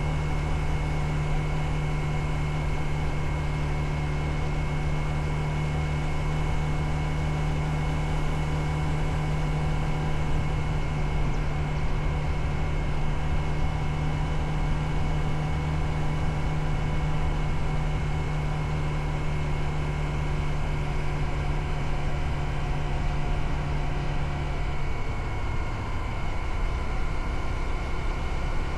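Motorcycle engine running steadily while riding, with a steady engine note that drops lower near the end.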